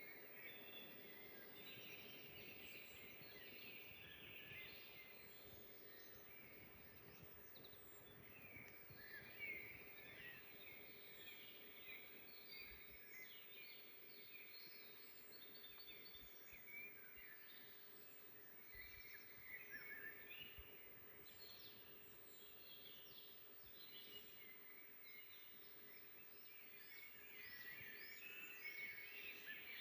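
Several songbirds chirping and trilling in a forest, faint, with overlapping short calls throughout and a faint steady low hum beneath.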